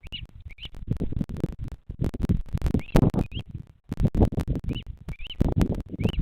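Short high rising chirps, mostly in pairs, typical of a young bearded vulture chick calling. Under them runs low rumbling and scratchy crackling.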